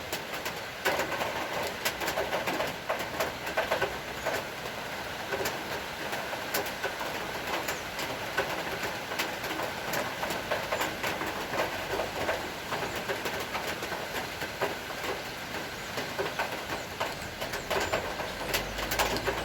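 Rain falling steadily: a continuous hiss with many irregular sharp drips and taps.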